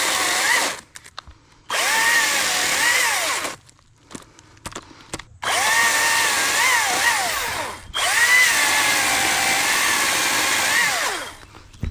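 Cordless ECHO DCS-2500T battery top-handle chainsaw running in four bursts of one to three seconds, cut off between trigger pulls. Its electric motor whine wavers up and down in pitch as it runs.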